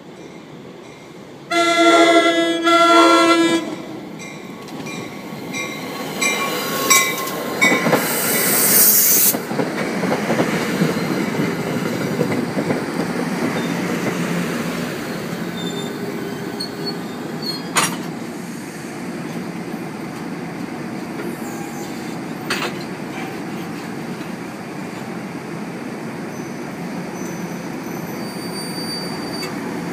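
NJ Transit commuter train sounding its chord horn on the approach to a grade crossing: a loud blast about a second and a half in, lasting about two seconds, then shorter horn notes a few seconds later. The passenger coaches then pass close by with a steady rumble and wheel clatter, with two sharp clacks.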